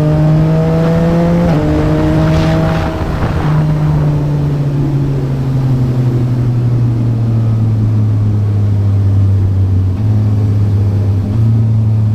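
Yamaha MT-09's 890 cc three-cylinder engine through a Yoshimura R11 exhaust, running under way. Its pitch steps between gears at about a second and a half and three and a half seconds in, then sinks slowly for several seconds before stepping up again twice near the end.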